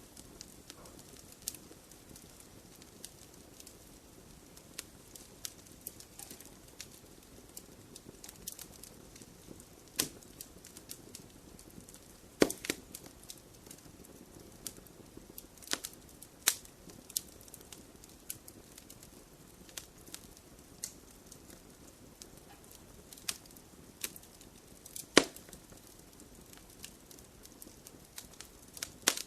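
Wood fire crackling in a fireplace: irregular sharp snaps and pops over a low, steady hiss, with a few louder pops scattered through, the loudest near the middle and again later on.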